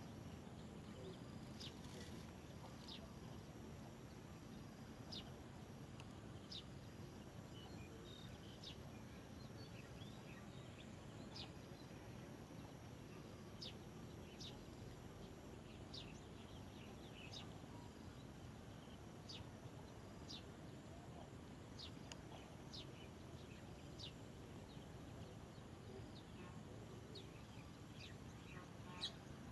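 Faint, short, high bird chirps, each a quick downward sweep, repeated every second or two over a low, steady outdoor rumble.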